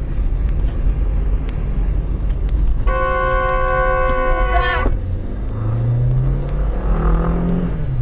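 Steady engine and road rumble from a vehicle, with a vehicle horn sounding one long honk of about two seconds in the middle. Near the end an engine's pitch rises twice as it speeds up.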